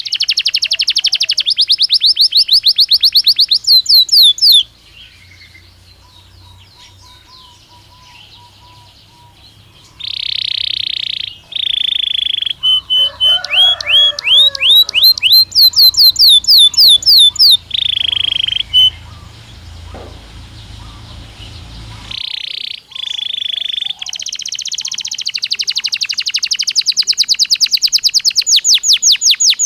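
Belgian canary singing: a rapid trill of repeated high notes, a pause of several seconds, then phrases of rising repeated notes and buzzy rolls. It ends in another long rapid trill.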